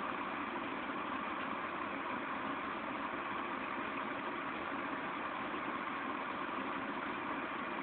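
Steady rain falling, an even hiss with no thunder or other sudden sounds.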